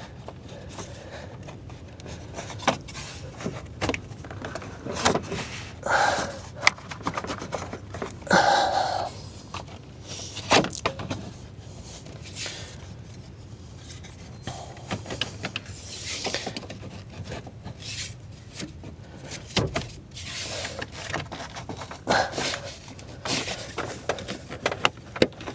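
Hard plastic engine coil cover being worked loose from its clips by hand: irregular clicks, rubbing and scraping of plastic, with a few sharper snaps.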